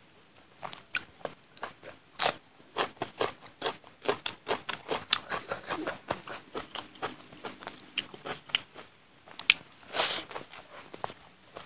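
Close-miked chewing of rice and chicken curry eaten by hand: a quick, uneven series of wet mouth smacks and clicks, with a louder cluster as another handful goes into the mouth near the end.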